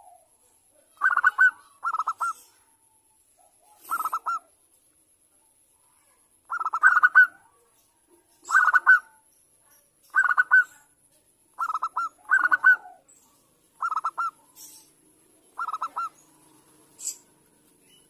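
Zebra doves (perkutut) cooing: about a dozen short phrases of quick rippling coo notes, each under a second and repeated every second or two. This is a lure call, played to set caged perkutut singing.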